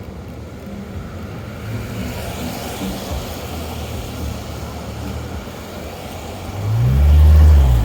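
Street traffic: a steady low rumble of passing vehicles, then a louder vehicle goes by close near the end, its engine note rising and then falling.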